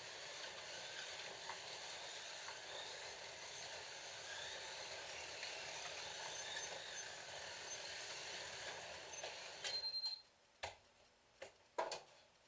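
Scalextric slot cars running on the track: a steady hiss and whine from the small electric motors and pickup braids on the rails. It cuts off suddenly about ten seconds in as the track power is stopped after a crash, and a few clicks follow.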